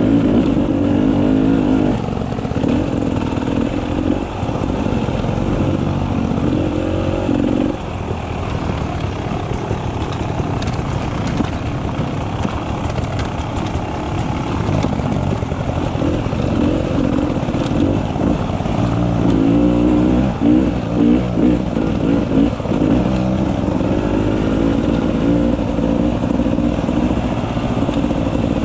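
Beta 300 RR two-stroke enduro motorcycle engine running under constantly changing throttle. There is a run of quick throttle blips and revs about twenty seconds in.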